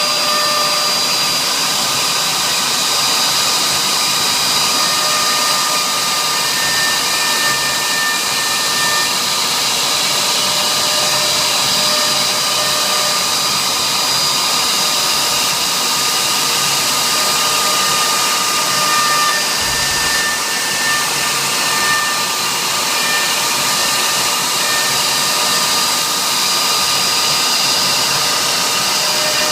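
CNC router spindle running and cutting, a steady loud hiss with a high whine whose tones fade in and out as the cut changes.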